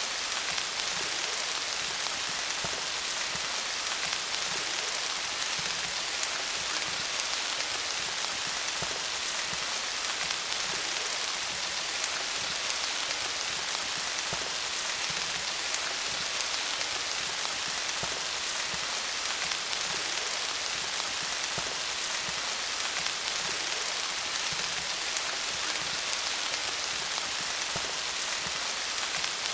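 Steady rain falling on leaves, many small drops pattering together in an even hiss.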